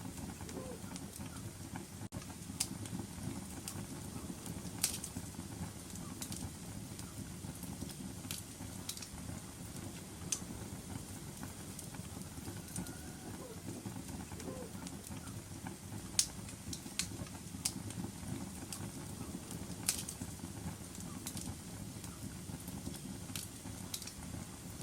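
Wood fire crackling in a fireplace: a steady low rumble of burning with sharp pops and snaps scattered irregularly throughout, a few of them louder than the rest.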